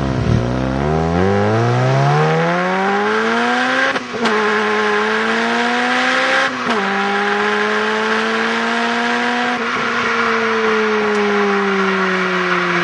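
Honda Civic Type R's four-cylinder engine through an HKS Hi Power 409 exhaust, accelerating hard with the revs climbing through the gears, with two clear upshifts about four and six and a half seconds in. After a small shift near ten seconds the revs ease slowly downward as the throttle comes off.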